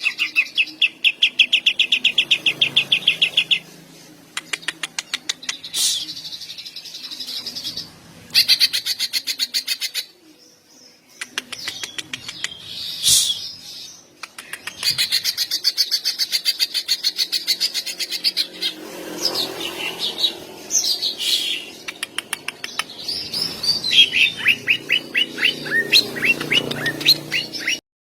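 A cucak ijo (green leafbird) singing. Long runs of fast, rapidly repeated notes are broken by short pauses, and sliding whistled notes come in the last third. The song cuts off abruptly just before the end.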